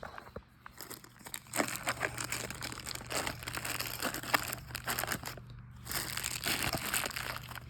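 Packaging crinkling and rustling as parts are handled out of the box, in irregular bursts with a brief pause about two-thirds of the way through.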